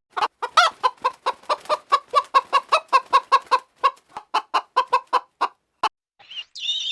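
A chicken clucking in a fast, even run of short clucks, about five a second, which stops about six seconds in. A different, higher warbling sound begins just before the end.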